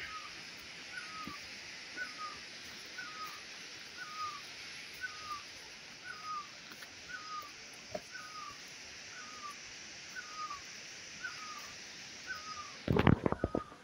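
A bird calls one short hooked note over and over, about once a second, over a steady high hiss. A loud burst of low rumbling comes near the end.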